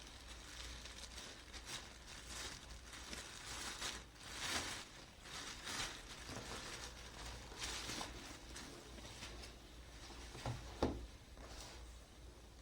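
Flood light packaging being handled and opened: irregular bursts of rustling, crinkling and tearing, with a short sharp knock near the end.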